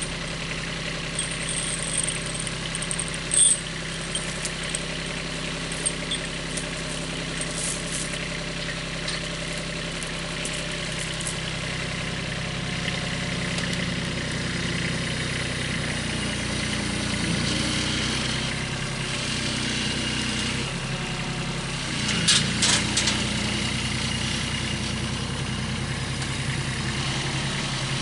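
An engine running steadily, with a few short sharp knocks over it, the loudest about three seconds in and a cluster a little past the middle.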